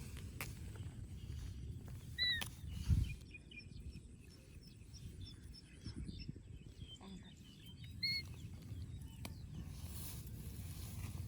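Outdoor ambience: a low rumble with a thump about three seconds in, faint high twittering, and two short, clear chirps about six seconds apart.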